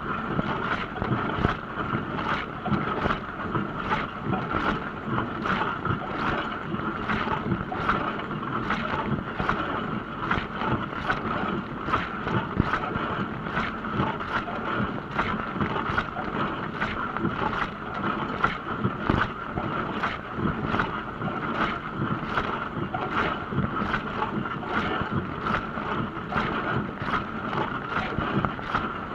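Dishwasher running a wash cycle: water spraying steadily inside the tub, with a regular swish about twice a second.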